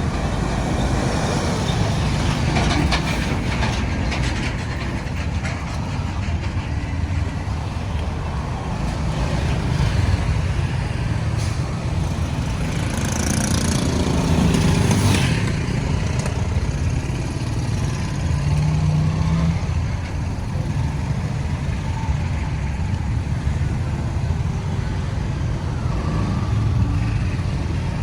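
Road traffic noise: trucks, cars and motorbikes passing with engines running and tyres on the road. About halfway through, a louder hiss rises and fades.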